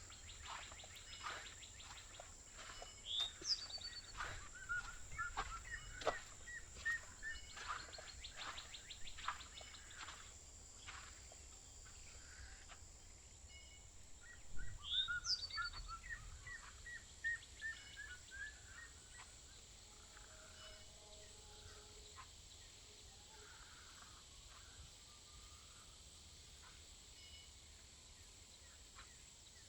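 A bird singing twice, about twelve seconds apart, each phrase a quick rising whistle followed by a falling run of short chirps. Footsteps crunch along the trail through the first half, over a steady thin high tone.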